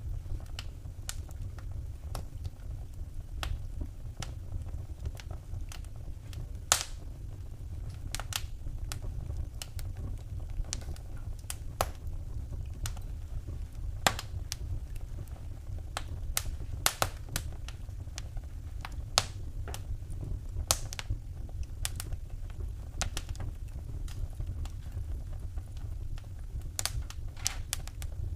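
Wood fire in a fireplace crackling: irregular sharp snaps and pops, a few louder than the rest, over a steady low rumble.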